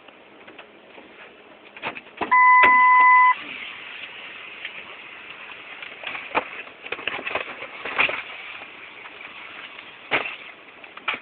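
A single steady electronic beep lasting about a second, followed by scattered clicks and knocks over a background hiss.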